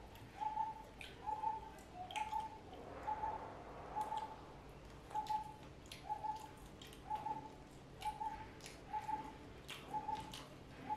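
A bird repeating one short, even note about one and a half times a second, over the wet clicks and smacks of people chewing and eating with their fingers.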